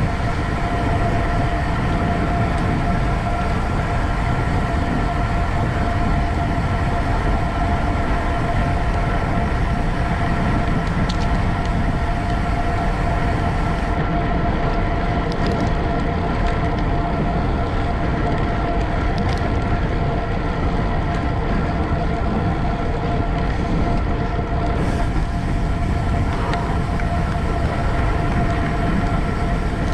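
Road racing bicycle rolling at speed: heavy wind rush on the microphone under a steady tyre and drivetrain hum, with a few faint ticks.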